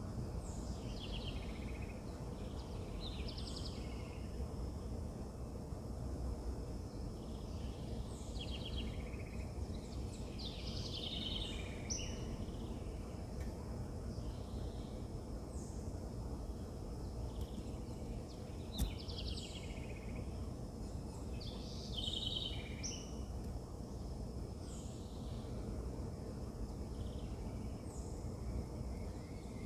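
Wild birds singing in short bouts of chirps and quick trills, repeated every few seconds over a steady low rumble of outdoor background noise. One sharp click comes about two-thirds of the way through.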